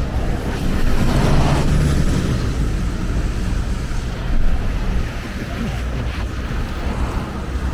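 Road traffic passing on the bridge: a steady low rumble of engines and tyres, with wind buffeting the microphone. It swells as a vehicle passes about a second in and gives a brief louder surge midway.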